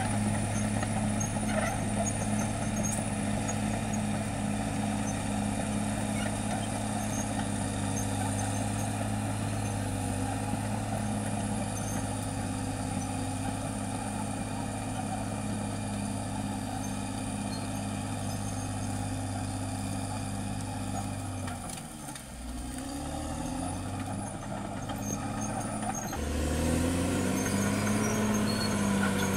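Caterpillar D6R XL bulldozer's diesel engine running steadily under work. Just past two-thirds of the way in, the engine note drops briefly, then picks up again. Near the end it revs up louder, its pitch rising and falling.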